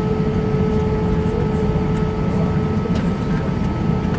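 Airbus A320 running on the ground, a steady engine and cabin drone with a constant hum tone over a low rumble.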